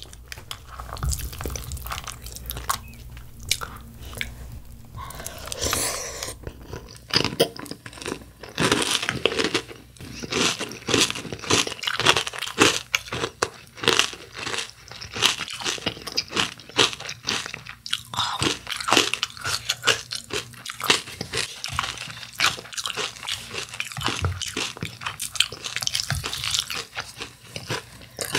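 Close-miked chewing of crispy cereal in milk: rapid, crackly crunching bites, sparse at first and coming thick and fast from about six seconds in.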